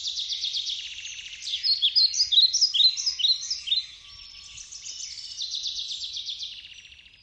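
Songbirds singing: rapid trills, with a louder run of quick downward-sweeping notes in the middle, fading out near the end.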